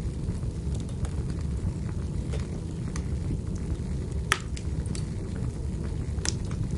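Wood fire in a fireplace crackling over a steady low rumble, with scattered sharp pops, the loudest about four seconds in.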